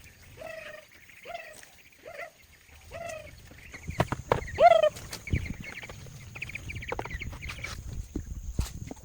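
Domestic poultry calling: a run of short calls that fall in pitch, about one a second, the loudest near the middle. From about four seconds in there is a low rumble with scattered knocks and handling noises.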